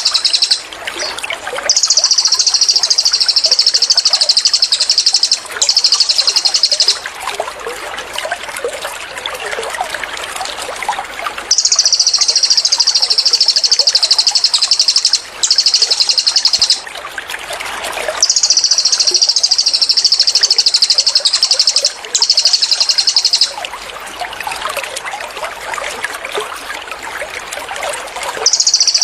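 Cililin songbird singing its rapid, high 'tembakan' trills in bursts of one to four seconds, about six of them with short gaps, over a steady trickle of running water.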